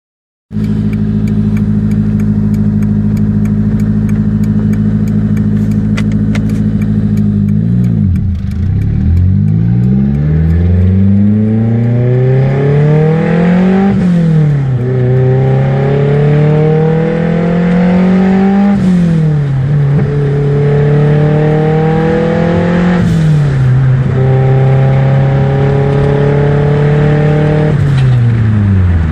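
Car engine running with no exhaust system fitted, loud and raw: it idles steadily, then pulls away and accelerates through several gear changes, the pitch climbing and dropping sharply at each shift, and falls back toward idle near the end.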